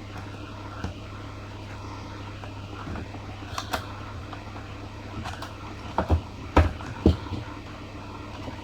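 Handling noise from unboxing a headset: a few short clicks and knocks, the loudest grouped over about a second around two-thirds of the way through, over a steady low hum.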